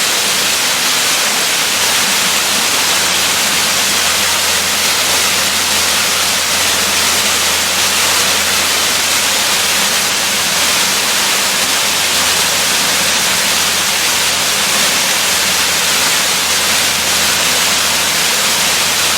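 Waterfall rushing steadily, a dense, even hiss of falling water that is strongest in the high range.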